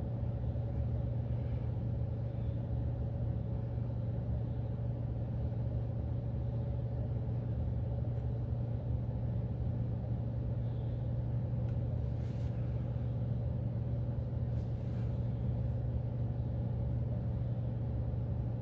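Steady low hum of a car's engine running, heard from inside the cabin.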